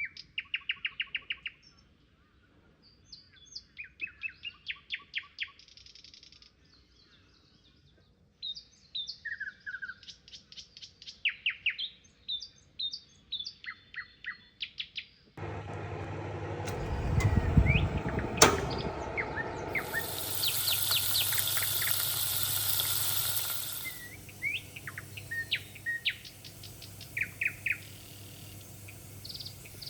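Small birds chirping and singing in quick repeated phrases. About halfway through, a louder rushing noise comes in and covers them for several seconds, with a high hiss near the middle of that stretch, before the chirping carries on over a faint background hiss.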